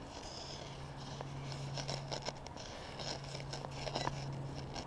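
Faint scraping and crunching, with scattered small ticks, as a buried target is dug for by hand in snowy frozen ground, over a steady low hum.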